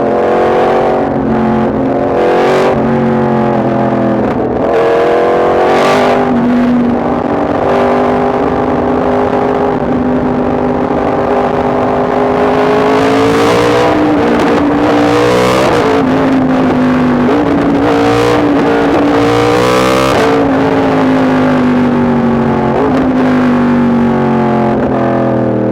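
Yamaha MT-10 SP motorcycle's crossplane inline-four engine pulling on the road, the engine note climbing, holding and dropping several times, with brief breaks in the note where the revs change sharply.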